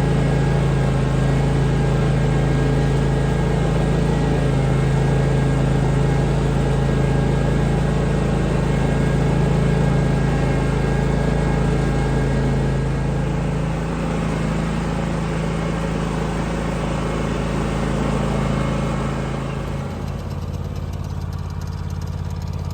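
A motor vehicle's engine running steadily, its note dropping a little near the end.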